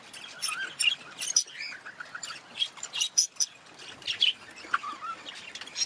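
Budgerigars chattering: a busy, unbroken run of short sharp chirps and warbling notes, several sharper calls standing out.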